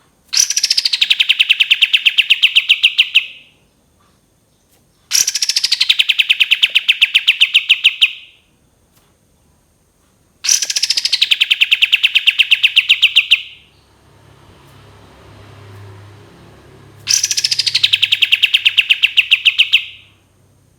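Kapas tembak songbird singing its long trilling song, four times over. Each phrase opens with a high note sliding down and runs into a fast, even rattling trill lasting about three seconds.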